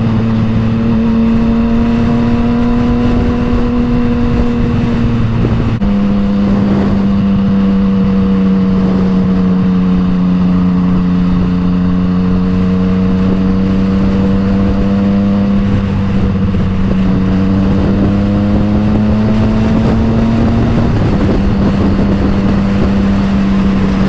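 Yamaha MT-09's three-cylinder engine through an Akrapovič exhaust, running steadily under way. Its pitch steps down about a quarter of the way in and again near the end, and rises slowly between the two drops.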